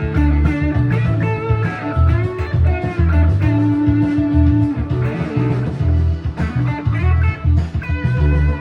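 Gibson Les Paul Standard 50s electric guitar played through an overdrive pedal set to its natural gain, on both pickups together, playing bluesy lead lines with string bends and a long sustained note near the middle, over a backing track of bass and drums.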